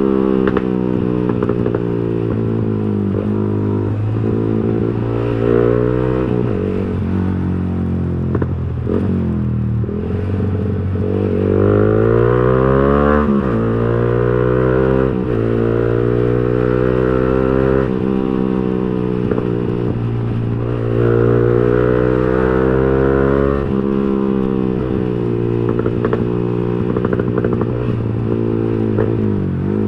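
A Yamaha R15 V3's 155 cc single-cylinder engine running through an aftermarket racing exhaust while riding. Its pitch climbs as it pulls through the revs and drops at each gear change, with stretches of steadier cruising between.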